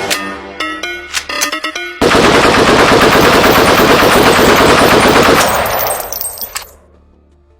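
Kalashnikov rifles firing on full automatic in one sustained, very loud burst of about three and a half seconds, then stopping and dying away. It is preceded by a few sharp clicks over a tonal, music-like sound.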